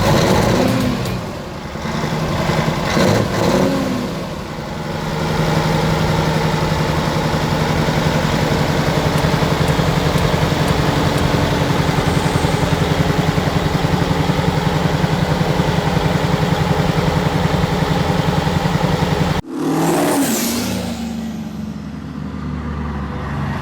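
Heavy truck engines. They rev up and down a few times at first, then settle into a steady, even run. The sound cuts off abruptly a few seconds before the end, and an engine revs again after the break.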